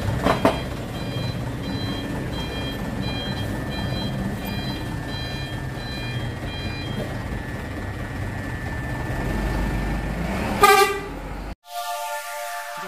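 Steady traffic noise with a short, loud vehicle horn blast about ten and a half seconds in, followed by an abrupt cut to a steady multi-note tone.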